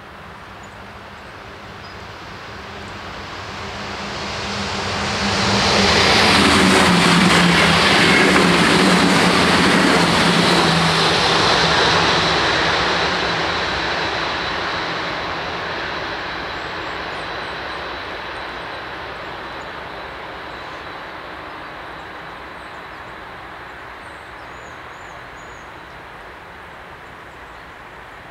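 Electric passenger train passing the level crossing: its running noise swells over a few seconds, is loudest for about six seconds with a thin high ringing tone in it, then fades slowly away.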